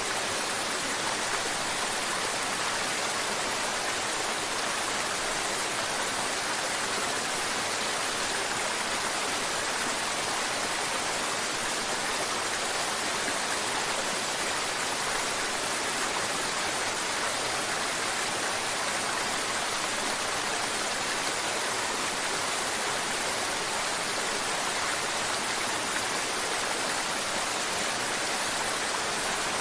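Mountain river water flowing and babbling, a steady, unbroken rush that sits mostly high with little deep rumble.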